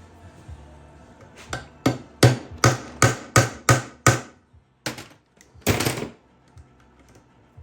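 Hammer blows, about seven in quick succession, then one more and a longer noisy sound, struck in an attempt to free a seized screw from a Lambretta Li125 engine casing.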